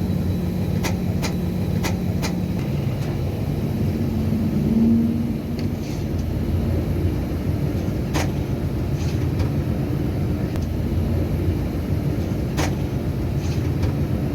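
Diesel locomotive engine running with a steady low rumble, swelling briefly louder about five seconds in, with a few sharp clicks scattered through it.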